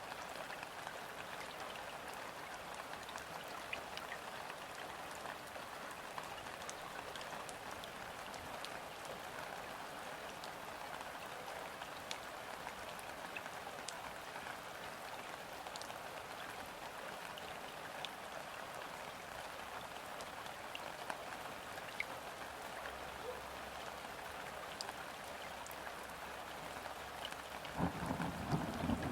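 Steady light rain falling on a river's surface: an even patter with scattered individual drops ticking through it. About a second before the end, a louder low rumble sets in.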